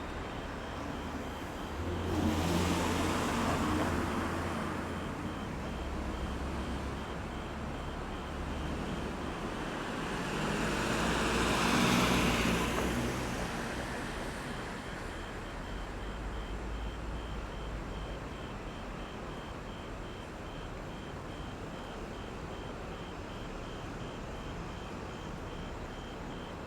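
Roadside traffic at a roundabout: a steady hum of traffic, with two vehicles driving past about two seconds in and again, louder, around the middle. A faint high beep repeats about twice a second throughout.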